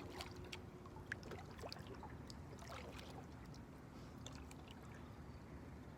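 Kayak paddles dipping in river water: faint scattered splashes and drips over a steady low rumble.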